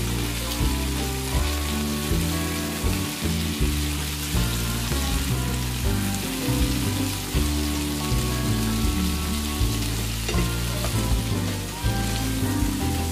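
Chicken tikka skewers sizzling and spitting in oil in a hot grill pan while they are turned over. Background music with a steady beat plays under the sizzle.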